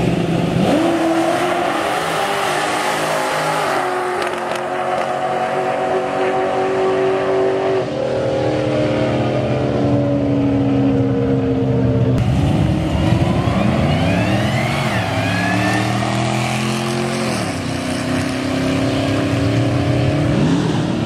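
Car engines at full throttle on a quarter-mile drag strip, climbing in pitch and dropping back at each gear shift through the first dozen seconds. Then more rising and falling engine revs as a car passes close by near the end.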